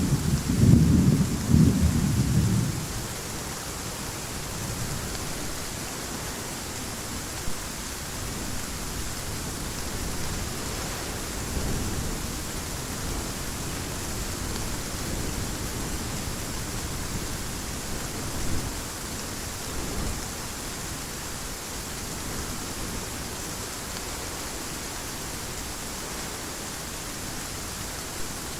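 Heavy rain falling steadily, with a loud low rumble of thunder in the first couple of seconds that dies away. A few fainter rumbles swell briefly later on.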